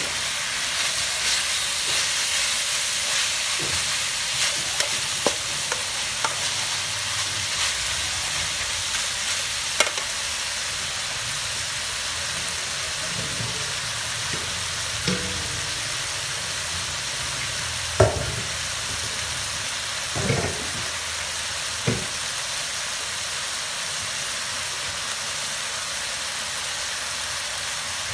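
Chicken, lemongrass and orange leaves sizzling steadily as they stir-fry in a steel wok. A metal spoon stirs and clinks against the wok during the first part, and a few sharper knocks come in the second half.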